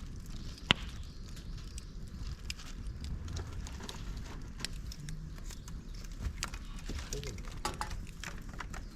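Dry bamboo and twigs crackling as they burn in a fire pit, with irregular small snaps and one sharp, loud pop under a second in.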